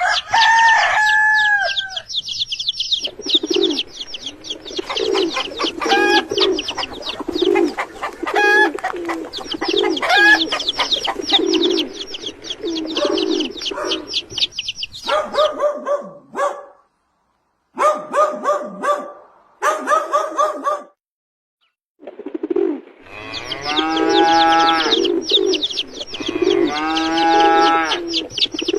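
Farmyard poultry: chickens clucking and a rooster crowing, over a steady chorus of many small birds chirping. The sound cuts out to silence twice near the middle.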